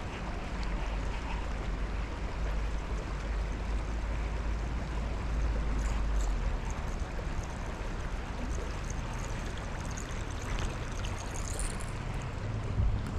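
Water and wind noise on a small fishing boat, with a heavy low rumble of wind on the microphone that eases about halfway through.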